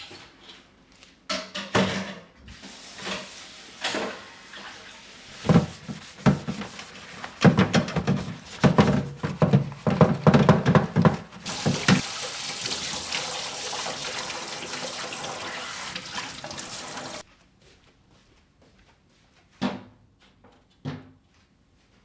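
Work at a kitchen sink: a run of knocks and clatter, then a faucet runs steadily for about five seconds and is shut off abruptly. Two short knocks follow near the end.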